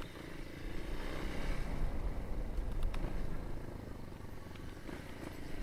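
Yamaha Lander 250's single-cylinder four-stroke engine running at cruising speed while the motorcycle is ridden, mixed with wind rushing over the helmet-mounted camera's microphone.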